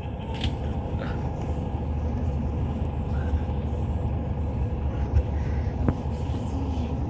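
Steady low rumble of a Hyundai Universe Space Luxury coach running, heard from inside the passenger cabin, with a single short click near the end.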